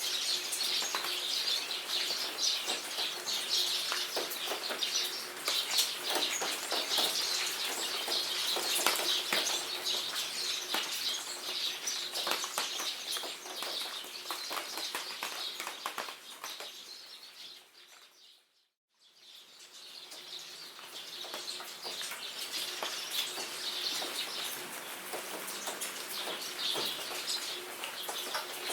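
Jungle rain pattering steadily, with many birds chirping and singing over it. About two-thirds of the way through, the whole sound fades out to a moment of silence, then fades back in.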